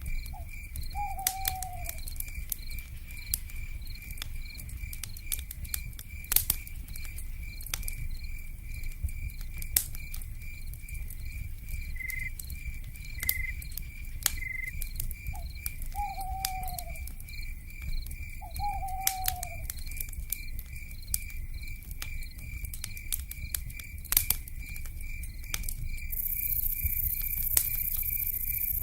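Crackling campfire with scattered sharp pops over a low rumble, under a steady pulsing chirp of night insects. An owl gives a short descending call about a second in and twice more near the middle. A high insect buzz, typical of cicadas, sets in near the end.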